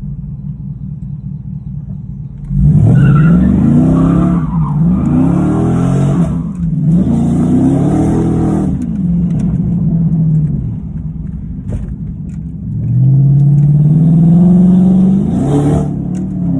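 Dodge Charger R/T's V8 engine revving hard in three rising-and-falling surges, settling back to idle, then holding a long high rev before dropping off near the end. A couple of sharp exhaust pops come as the revs fall away, about two thirds of the way in.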